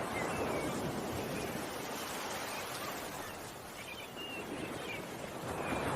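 Ocean waves washing in and out, swelling at the start and again near the end, with a few short bird chirps over them.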